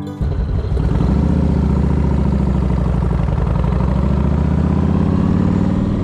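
V-twin motorcycle engine running steadily at a constant pitch, with some wind noise on the camera microphone.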